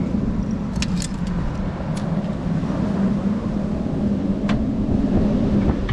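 A few sharp clicks and taps of screws going into the plastic headlight and bumper fittings, over a steady low rumble like a running vehicle.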